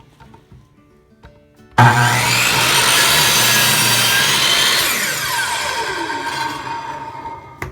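Hitachi 10-inch compound miter saw switched on: the motor and blade start abruptly about two seconds in and run at full speed for about three seconds. The trigger is then released and the blade winds down with a falling whine, ending with a short knock.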